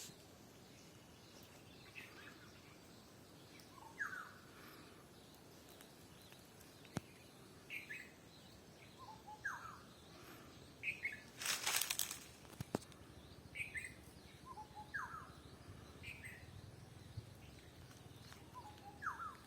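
Birds calling in the countryside: one bird repeats a short whistled call every few seconds, and shorter, higher chirps fall in between. About twelve seconds in, a brief rustling burst is the loudest sound.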